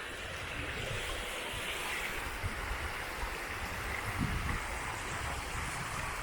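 River water flowing steadily, with a low rumble of wind buffeting the microphone.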